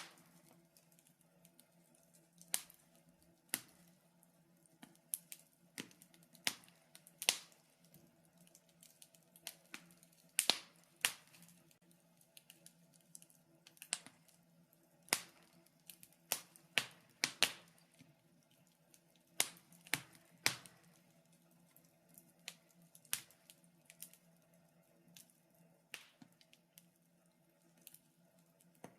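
Logs crackling in a fireplace: irregular sharp pops and snaps, about one a second, sometimes in quick clusters, over a faint steady hum.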